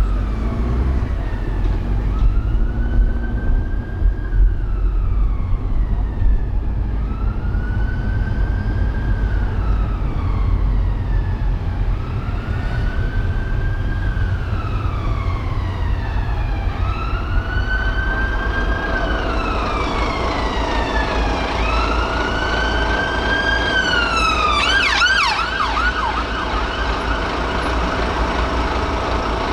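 Emergency vehicle siren wailing in slow rising-and-falling sweeps that grow louder, switching briefly to a fast yelp near the end, over a steady low rumble of road noise.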